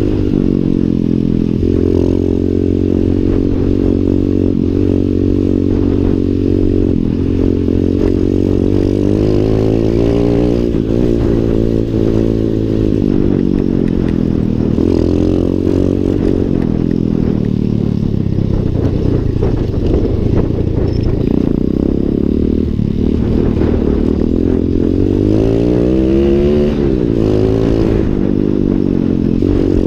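Lifan 125 cc single-cylinder four-stroke pit bike engine running while being ridden, its pitch rising and falling as the throttle is opened and closed, with a clear rev up and back down near the end.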